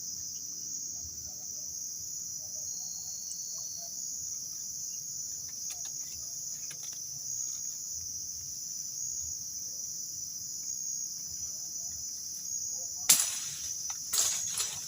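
Steady, high-pitched chorus of insects. A few faint clicks sound midway, and a sharp knock followed by rustling handling noises comes near the end.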